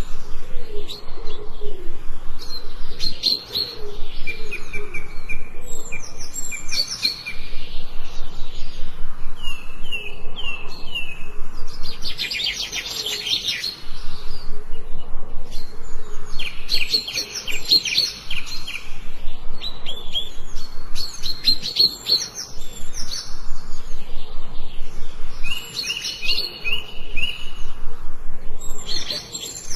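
Several songbirds chirping and singing together: quick runs of high repeated notes and rapid trills overlapping one another, with short lulls between bursts.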